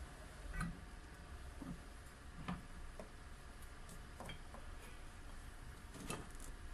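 Scattered light clicks and knocks, about seven in all at irregular intervals, from tools and parts being handled during work on the snowmobile's variator, over a faint low hum.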